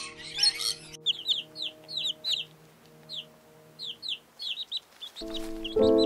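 Chicks peeping: short, high, downward-sliding peeps repeated in quick runs over soft background music that swells near the end. At the start, a burst of loud, dense squawking chatter from another animal cuts off after about a second.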